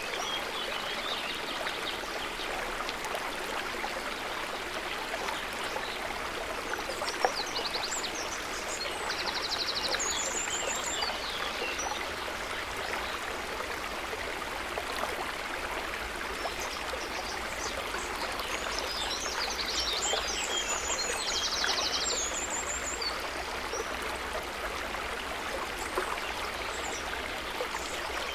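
A river or stream running steadily, a continuous rushing, trickling water sound. Short high-pitched trills come through it twice, about ten and twenty seconds in.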